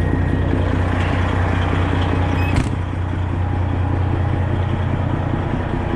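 Semi truck's diesel engine idling steadily, with a single sharp knock about two and a half seconds in.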